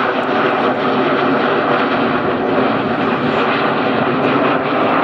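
Red Arrows' BAE Hawk T1 jets flying their formation display, a steady loud jet engine noise.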